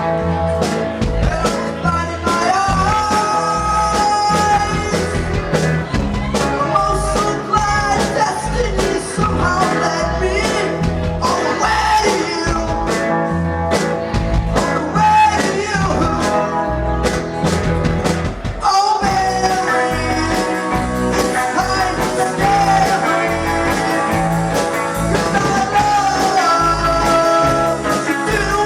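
Rock band playing a song, with a singer's voice over guitars and a steady drum beat.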